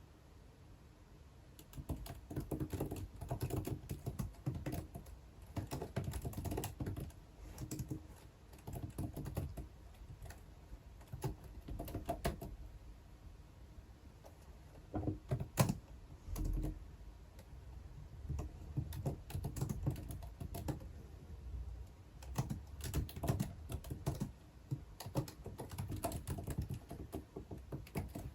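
Typing on a computer keyboard in bursts of rapid key clicks with short pauses between them, starting about two seconds in. A low bump, like something set down on the desk, comes about halfway through.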